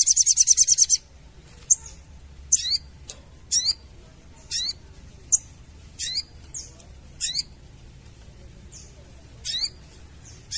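Sogon bird's chattering call (crecetan): a fast high trill of about a dozen notes in the first second, then short, high, downward-sliding call notes repeated about once a second.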